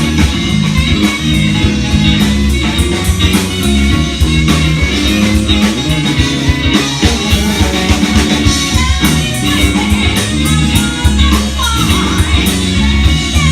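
Loud band music led by guitar, with a steady beat and bass.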